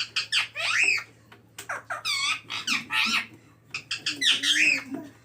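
Indian ringneck parakeet giving several short, high-pitched squawks and chirps in quick succession, each rising and falling in pitch.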